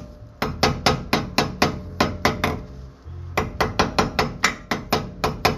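Light hammer taps on the thin metal grease cap, working it around the rim to seat it on a front wheel hub. They come in two quick runs of about five taps a second, with a short pause near the middle.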